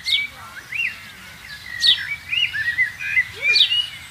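Small birds calling: three sharp whistles that sweep steeply downward, about every second and a half, among quicker wavering chirps.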